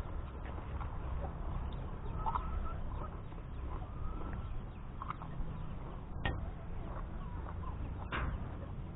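Faint bird calls over a steady low rumble, with a few sharp clicks, the loudest about six and eight seconds in.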